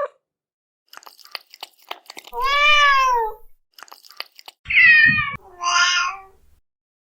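A kitten meowing three times, high and arching in pitch, with scattered short clicks before the first meow and between the first and second.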